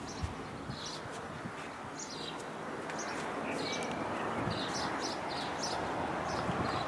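Small birds chirping in short, repeated calls over a steady background of outdoor noise.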